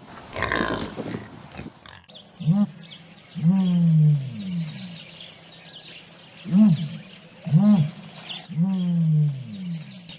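An animal calling again and again: about five pitched calls, each rising and falling, some short and some drawn out, after a brief rough noisy sound at the start.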